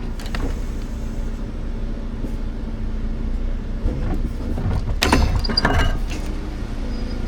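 Timber truck's diesel engine running at idle as the truck is eased a little, with a short spell of metallic clanking and rattling about five seconds in as the trailer hook works free.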